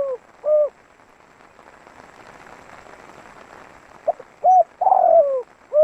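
Spotted dove cooing. The tail of one phrase and a short coo come near the start. After a pause of about three seconds, a new phrase begins with a few short coos and a longer falling coo, and one more note comes right at the end.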